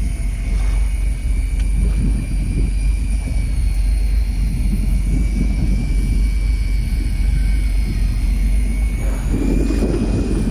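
Fishing boat's engine running steadily, a continuous deep drone with a faint steady whine above it.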